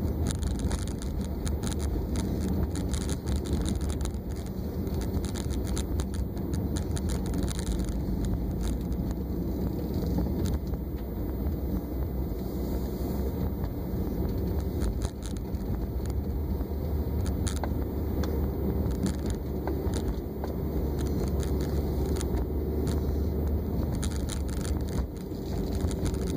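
Steady low rumble of a car driving along, heard from inside its cabin, with scattered faint clicks and rattles.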